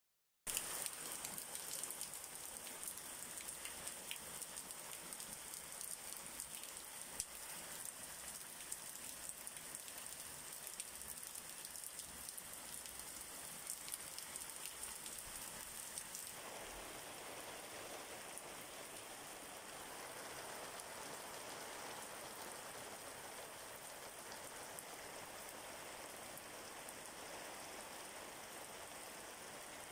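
Steady rain falling, a continuous hiss with many single drops tapping sharply through the first half. About halfway through the hiss grows fuller and smoother, with fewer separate drop taps.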